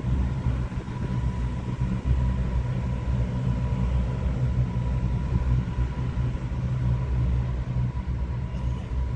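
Jet aircraft engines rumbling steadily, with a faint high whine held at one pitch above the rumble.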